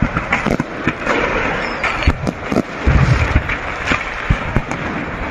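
Fireworks crackling and popping in a dense stream of sharp cracks, with a deeper bang about three seconds in.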